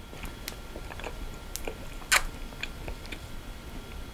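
Close-miked chewing of a spoonful of dark chocolate ice cream with chocolate chunks in it: soft, wet mouth sounds with scattered small crunches and clicks, the sharpest about two seconds in.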